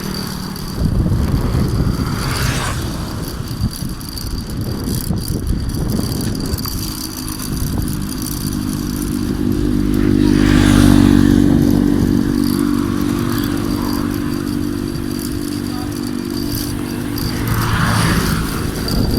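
Road noise while riding a bicycle along a highway: wind rumble on the microphone and passing motor vehicles. One engine draws close from about seven seconds in and is loudest about halfway through.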